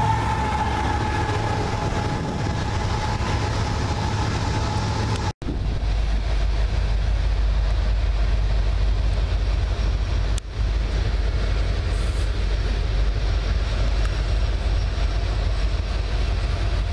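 Freight trains passing. For the first five seconds a locomotive and container cars go by close at hand, with a steady whine over the rolling noise. Then the sound cuts to a string of loaded coal gondolas rolling past farther off as a strong low rumble.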